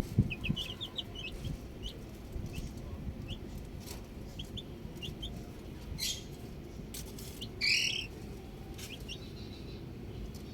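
Baby chicks peeping: short high cheeps, a quick run of them in the first second or so, then scattered ones, with a louder, rougher call about three quarters of the way through. A low background rumble runs underneath.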